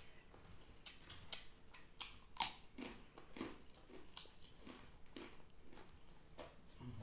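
Close-up eating sounds: fingers working rice on a banana leaf, then chewing with wet mouth clicks at about two chews a second. A sharp click about two and a half seconds in is the loudest sound.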